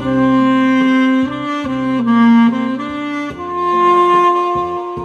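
Instrumental music: a saxophone playing a slow melody of long held notes over a backing accompaniment.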